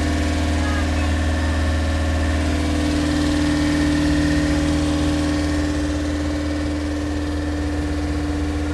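Boat engine running at a steady speed, a constant low hum with no change in pitch.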